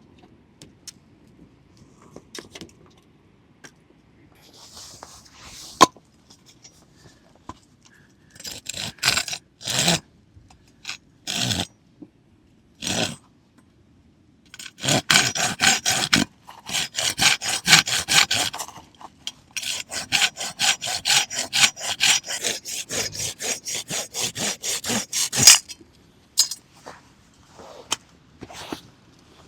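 Wood being sawn by hand in quick back-and-forth strokes, about four a second, after a few hesitant strokes. Steady sawing from about halfway through, with a short pause, then it stops.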